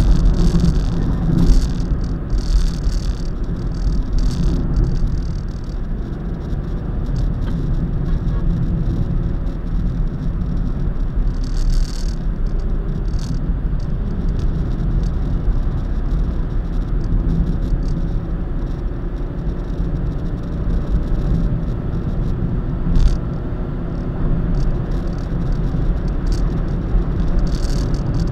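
Steady road and engine noise of a car driving at speed, a continuous low rumble, with brief hissing swells a few times.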